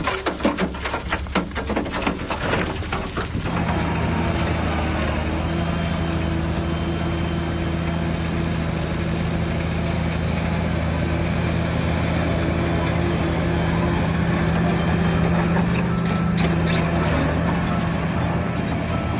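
Heavy diesel earthmoving machine engine running at a steady speed. The first few seconds hold dense crackling and knocking before the steady engine hum takes over.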